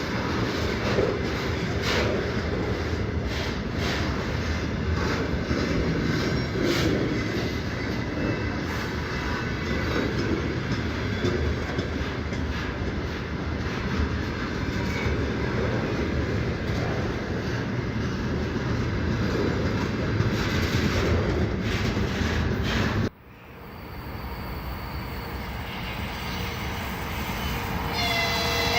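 Freight train wagons rolling past, with a steady rumble and irregular clicks of wheels over rail joints. About 23 seconds in, the sound cuts to a quieter train approaching and growing louder, and at the very end an electric locomotive's horn starts to sound.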